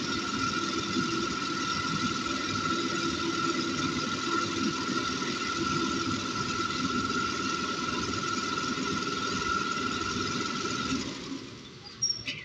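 Ceiling fan coil winding machine running steadily, with a constant whine over its mechanical noise as it winds copper wire onto the stator. It stops about eleven seconds in, followed by a couple of short clicks.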